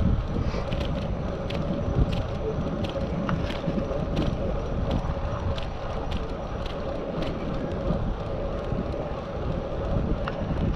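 Wind buffeting an action camera's microphone on a moving bicycle, over a steady low road rumble and a steady hum, with light ticks about twice a second.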